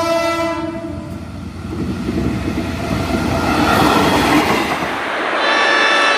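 A train passing at speed: its horn sounds in the first second, then gives way to the loud rushing rumble of the passing cars, and the horn sounds again near the end.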